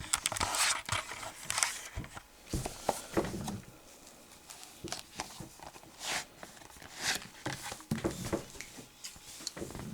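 Plastic shrink wrap being torn and crinkled off a Blu-ray case, in irregular rustles with sharp little clicks and snaps of the plastic case.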